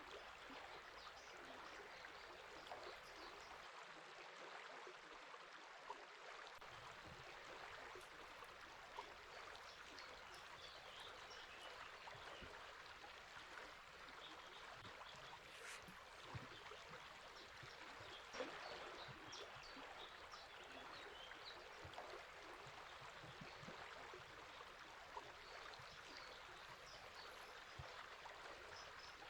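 Faint, steady rush of a flowing river, with small songbirds chirping now and then over it.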